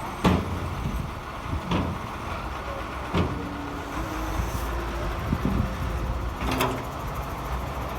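Heavy earthmoving machinery running with a steady engine rumble, with four sharp metallic knocks spread through it, the sound of an excavator or dump truck at work.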